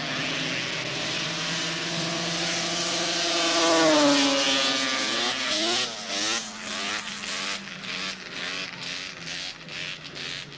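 Racing snowmobile's two-stroke engine at full throttle making a drag pass. It is loudest about four seconds in as it goes by, the pitch falling after. Then the note turns choppy and uneven as the throttle comes off.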